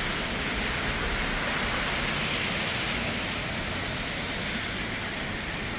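Steady rushing hiss of heavy rain, even and unbroken.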